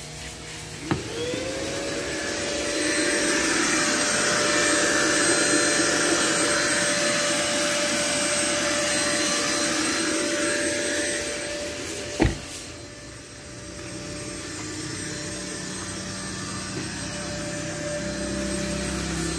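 An electric motor spins up about a second in, then runs steadily with a rushing hiss of moving air. A sharp click comes about twelve seconds in.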